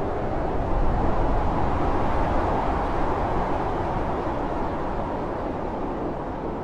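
Heavy blizzard wind blowing loudly and steadily. A gust swells about a second in, then slowly eases off.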